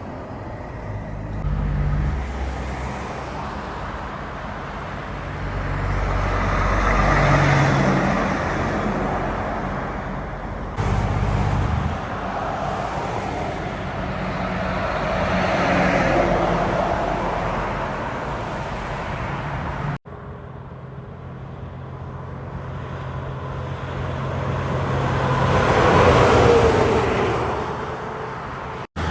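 Heavy trucks driving past on a road, three separate passes, each a low engine drone with tyre and road noise that swells and fades away. Each pass is cut off abruptly and the next begins straight after.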